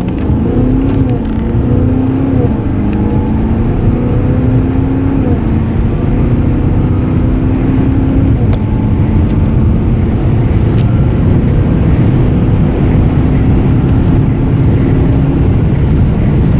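Audi A8 4.2 TDI V8 diesel under acceleration, its engine note rising in steps over the first half as it changes gear, then holding steady, over a heavy low rumble.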